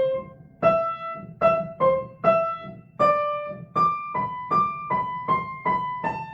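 Piano played slowly, one note at a time: a stepwise melody of about a dozen struck notes, each left to ring and fade before the next, at about two notes a second.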